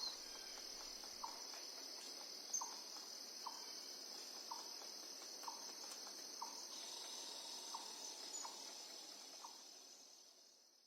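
Crickets chirping in a steady high trill, with a short lower chirp about once a second. The whole sound fades out near the end.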